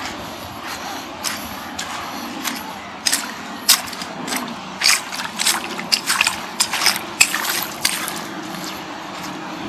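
Shallow sea water splashing and lapping at the shore, with a burst of irregular short splashes in the middle, over a steady wash of surf.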